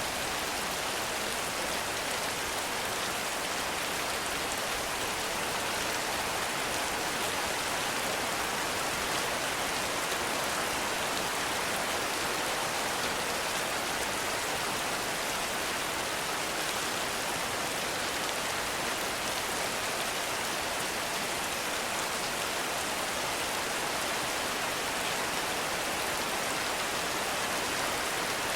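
Heavy rain falling steadily in a forest, a dense, even hiss of drops with no thunder or breaks.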